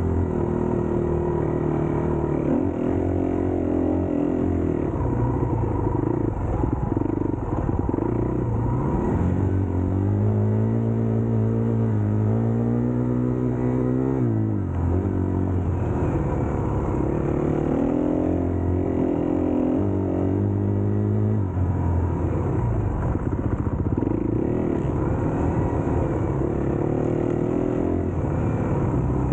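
Dirt bike engine running under way, its pitch climbing as it revs out and dropping sharply when it shifts or comes off the throttle, a few times over.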